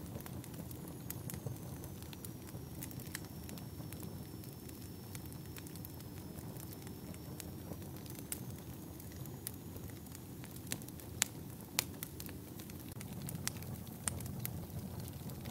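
Wood fire burning in a fireplace: a steady low rumble of the flames with sharp crackles and pops scattered throughout, two louder pops a little past the middle.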